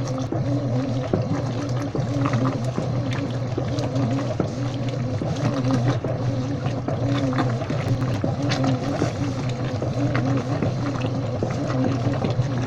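Washing machine running: a steady low motor hum under water sloshing and trickling, with small irregular splashes and clicks.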